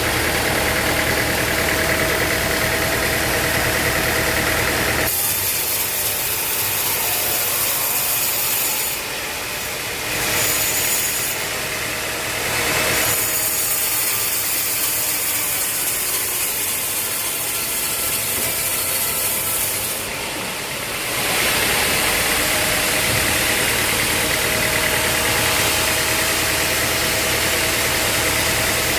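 Sawmill machinery running. A steady engine hum holds for about the first five seconds and again from about 21 seconds on. In between, the low hum falls away and a bright, hissing mechanical sound takes over.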